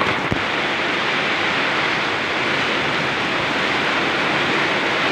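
Very heavy rain pouring down in a dense, steady hiss, with a brief low thump a moment in.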